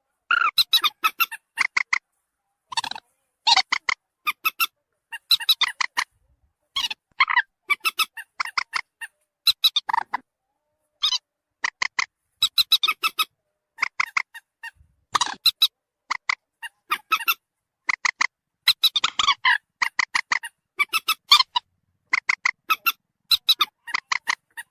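Recorded lure calls of the common moorhen (mandar batu): short, sharp calls delivered in quick clusters of several at a time, repeating every second or so, each cluster cutting off abruptly into silence.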